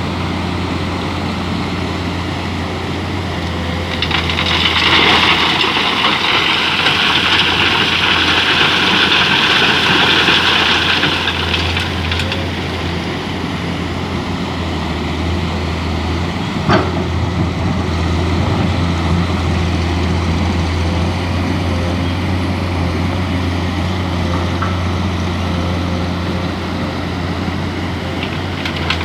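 Mining excavator's engine running steadily under work. A hissing noise joins in from about four seconds in until about twelve, and a single sharp knock comes a little past halfway.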